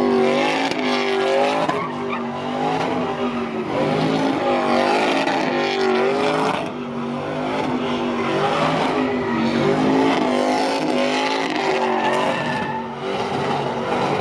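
Pickup truck engine held at high revs in a burnout, the pitch wavering up and down, with tires squealing and spinning over it.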